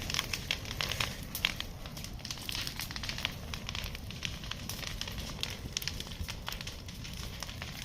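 Forest fire burning, with dense, irregular crackling and popping over a low steady rumble.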